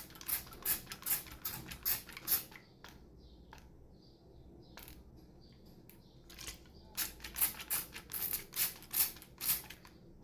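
Parrot imitating dripping water: a quick series of sharp pops. A second run comes about six and a half seconds in.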